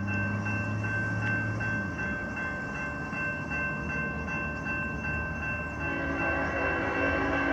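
CSX loaded coal train on the move, with steady rail and engine noise and two thin, steady high-pitched tones throughout. A low drone fades out about two seconds in, and a new set of steady pitched tones comes in near the end.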